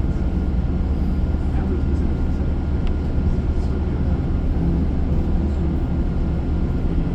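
Steady low engine and road noise of a moving bus, heard from inside the cabin.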